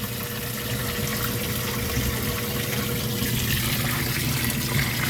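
Water running steadily inside a Kenmore washing machine, with a low steady hum from the machine under it.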